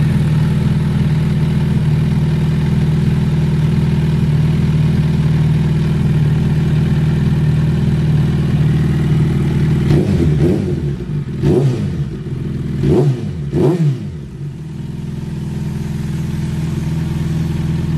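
Suzuki motorcycle engine idling steadily through an SC-Project aftermarket exhaust, then revved with four quick throttle blips about ten seconds in, each rising and falling in pitch, before settling back to a quieter idle.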